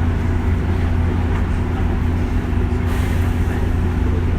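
201 series electric train heard from inside: a steady low rumble of motors and wheels, with a constant hum and a short hiss about three seconds in.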